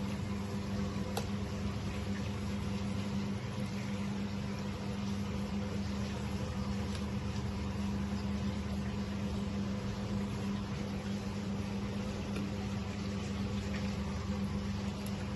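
A small motor running steadily with a constant hum and a noisy hiss over it, unchanging throughout.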